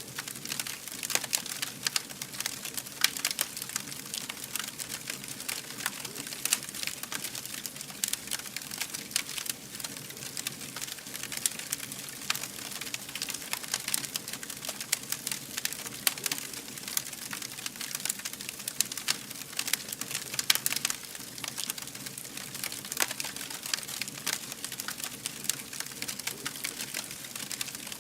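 Wood fire burning, crackling and popping continuously over a steady hiss and a soft low rumble.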